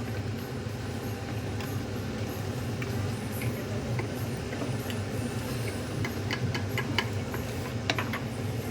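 Chicken and masala cooking in a pot on the stove: a steady low hum with scattered light ticks and taps, busiest from about six to eight seconds in.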